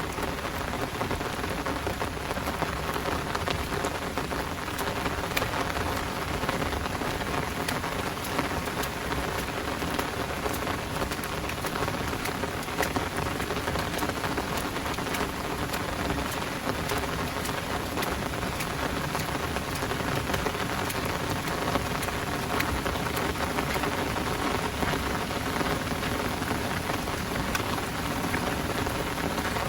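Heavy downpour falling steadily, a dense hiss with many sharp drop ticks striking close by.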